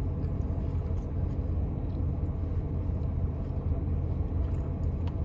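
Steady low rumble of an idling car, heard from inside the cabin, with a few faint small clicks.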